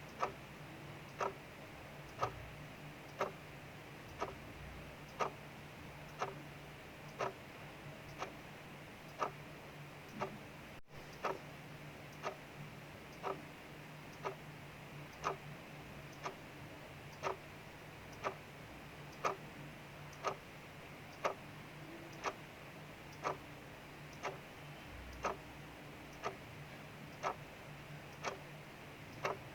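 Clock ticking steadily, about one tick a second, over a faint, even hiss of rain outside.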